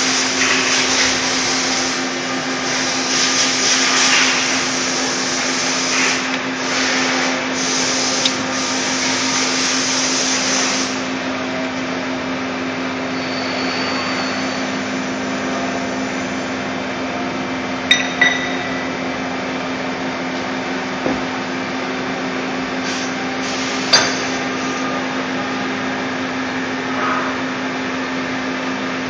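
Steady machine hum with a constant low tone, from a CNC lathe running in the shop. A hissing noise over it is louder for about the first eleven seconds and then drops. Two sharp metallic clinks with a short ring come about 18 and 24 seconds in.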